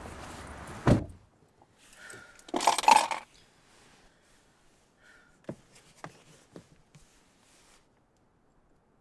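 A sharp thud about a second in, cutting off a steady background noise. A brief clattering rattle follows a couple of seconds later, then a few soft taps.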